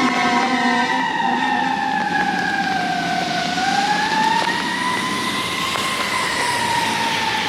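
Fire engine siren wailing, its pitch sliding slowly down, back up and down again. A second, lower tone drops out about a second in.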